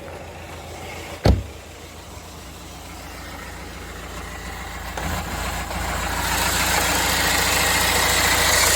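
A single loud thump about a second in, then the 2.0-litre N47 four-cylinder diesel of a 2009 BMW 320d idling, growing louder from about five seconds in as the engine bay is opened. The idle is lumpy from a misfire, traced to the cylinder 3 injector.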